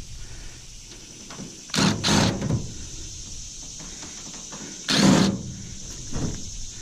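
Two short bursts of a power drill backing screws out of a stainless steel steamer cabinet, a longer one about two seconds in and a shorter one about five seconds in.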